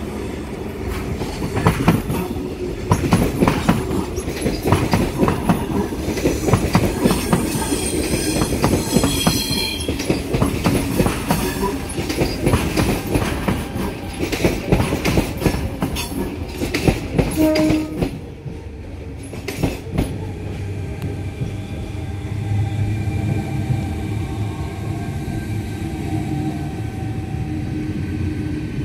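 Sydney electric suburban trains, a Tangara and a Waratah double-deck set, passing close: wheels clatter rapidly over rail joints and points, with a high squeal for a few seconds about a third of the way in. About two-thirds of the way through the clatter stops abruptly, leaving the train's steady electric hum.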